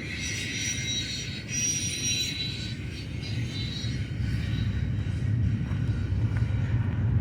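Freight cars of a long BNSF train rolling past, with thin high wheel squeal in the first couple of seconds over a steady low rumble that grows louder in the second half.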